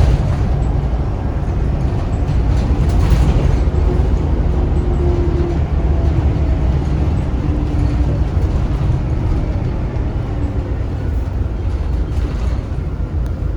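Scania L94UB bus's rear-mounted Scania DC9 9-litre six-cylinder turbo diesel running with a steady low rumble. A faint whine falls gradually in pitch through the middle.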